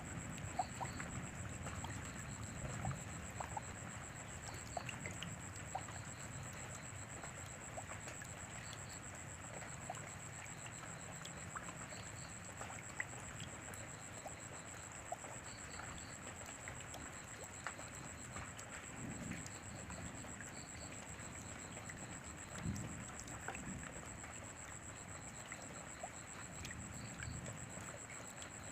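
Steady rain, with many individual drops ticking and pattering close by. Low rumbles swell up a couple of times in the second half, and a thin steady high tone runs underneath.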